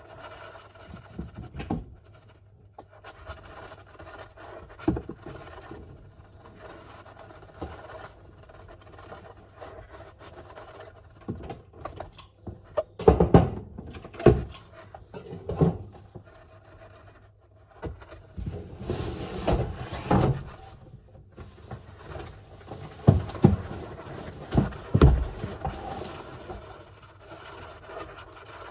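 A golden hamster scratching and scrabbling about its cage, with a few sharp knocks in the middle and near the end and a short scratchy hiss about two-thirds of the way in.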